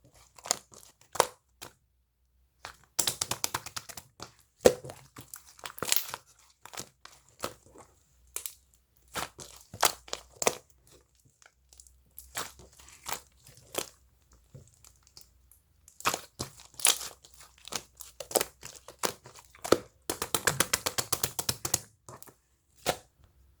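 Slime being squished and stretched by hand, giving irregular bursts of sticky crackling and popping clicks, with a long dense run of rapid crackles near the end.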